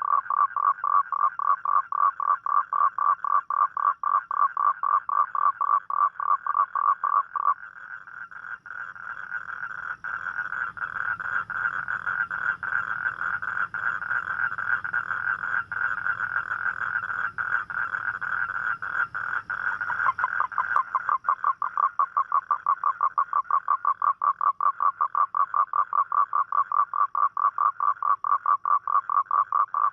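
A toad calling: a long run of rapid pulsed croaks, about five a second. About a quarter of the way in, the pulses blur into a smoother, slightly higher trill. About two-thirds through, the separate pulses return.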